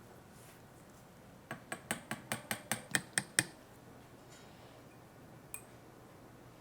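A quick run of about a dozen sharp metallic clicks over two seconds, getting louder, then a single click a couple of seconds later.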